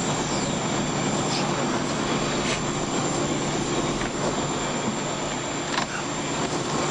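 Steady vehicle noise: an even rushing hum with a low drone, with no clear change.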